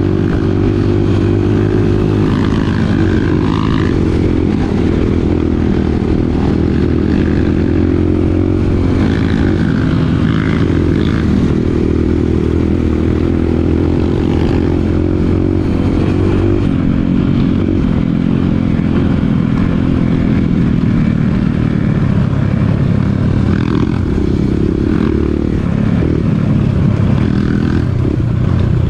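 Dirt bike engine running steadily under way, its pitch holding fairly even and shifting slightly about halfway through.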